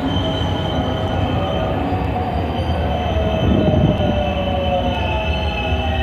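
Gakkentoshi Line electric train running, with a constant low rumble and steady high-pitched whines that slowly fall in pitch.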